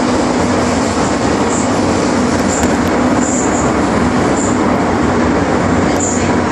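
MTR Island Line metro train running between stations, heard from inside the car: a loud, steady rumble with a low hum, and faint brief high-pitched squeaks every second or so.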